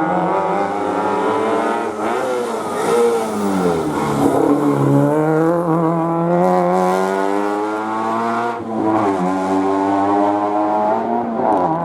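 Historic rally car engine coming off the throttle for a hairpin, its pitch dropping, then accelerating hard away with the revs climbing steadily, an upshift about two thirds of the way through and another near the end.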